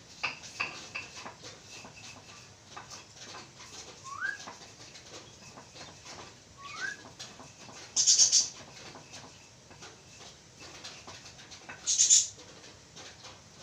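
Javan mynas calling: scattered clicks and chatter, two short rising whistles, and two loud harsh screeches about four seconds apart.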